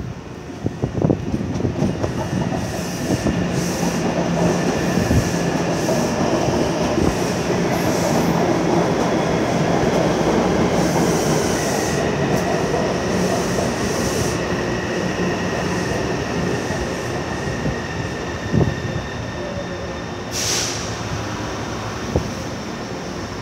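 Taipei Metro C301-type train with refitted propulsion equipment moving through the station: wheel-on-rail rumble and motor noise build up, are loudest around the middle and then slowly ease off. A steady high-pitched tone runs through the second half, with a few sharp clicks along the way.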